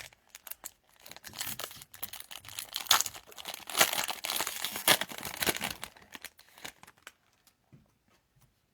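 Foil trading-card pack wrapper being torn open and crinkled: a dense crackling rustle for several seconds that dies away near the end.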